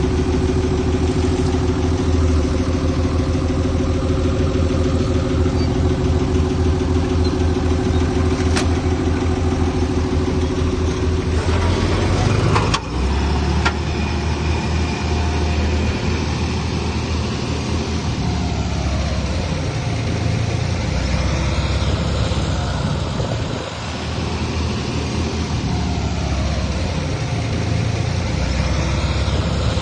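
A heavy machine's diesel engine running at a steady idle; about twelve seconds in there is a sharp clank, and the engine note then rises and falls as the throttle changes under work.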